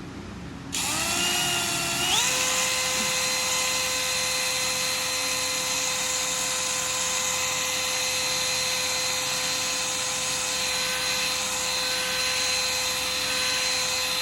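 Electric drill spinning a cotton swab to polish corrosion from the inside of a carburetor float needle seat. It starts about a second in, its whine rising in two steps as it comes up to speed, then runs steadily.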